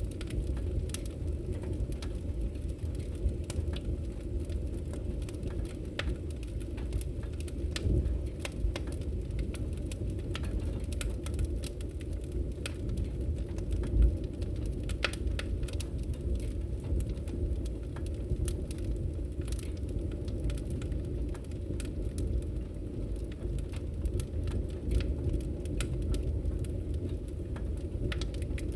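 Campfire burning: a steady low rush of flames with frequent sharp crackles and pops from the wood, one louder pop about halfway through.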